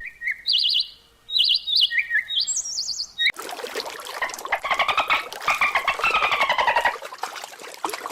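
Bird song: short, quick trilled phrases that jump up and down between high notes. About three seconds in it cuts to a different call, a fast, dense rattling chatter whose pitch rises and then falls.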